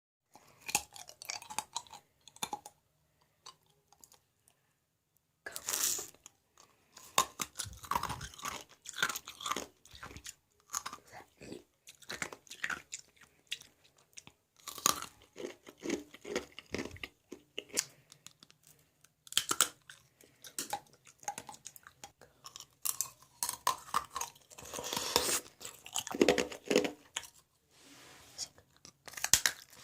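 Ice being bitten and chewed: repeated sharp crunches in quick irregular runs, with a pause of about two seconds a few seconds in.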